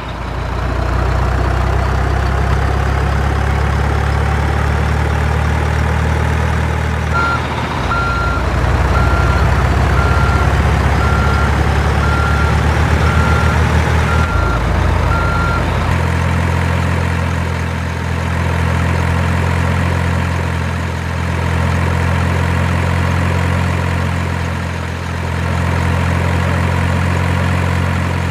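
Truck engine drone, steady and low, with a reversing beeper sounding about once a second for some eight seconds in the middle.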